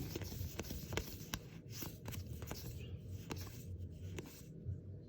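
Trading cards being handled and flipped through by hand: faint, irregular ticks and soft slides over a low background hum.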